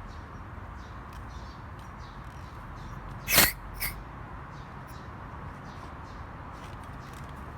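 Two short spurts of hissing gas about three seconds in, the first louder, the second brief: the air-conditioning additive can's charge hose being purged of air with refrigerant.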